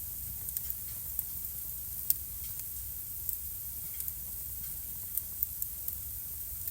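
Wood fire burning in a fireplace: a steady soft hiss and low rumble with irregular sharp crackles and pops, the loudest pop about two seconds in.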